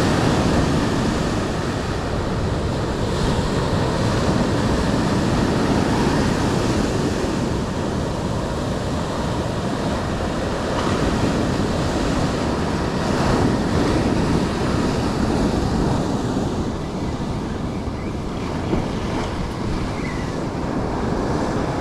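Ocean surf washing onto the shore in slow swells, with wind buffeting the microphone.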